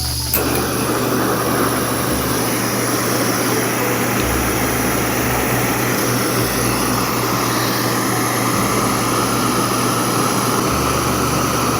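Portable camping gas stove lit with a sharp click about half a second in, then the burner hissing steadily at full flame to bring water to the boil.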